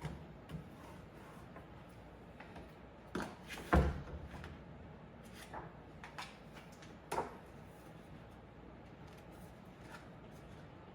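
A few scattered small knocks and rustles of handling over faint room tone, the loudest about four seconds in and another near seven seconds; no piano playing.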